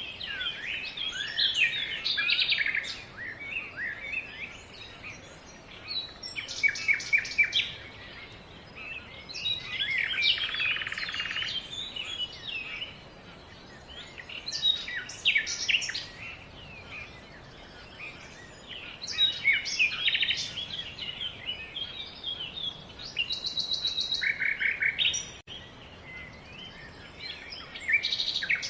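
Songbirds singing and calling: bursts of quick chirps, rapid repeated notes and short trills with brief pauses between them, over a faint background hiss.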